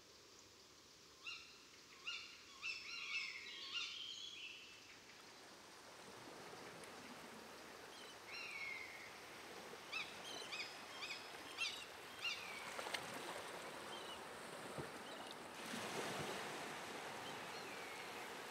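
A bird calling at night in quick runs of short, sharp notes, two runs a few seconds apart. A soft wash of water noise builds underneath after about six seconds.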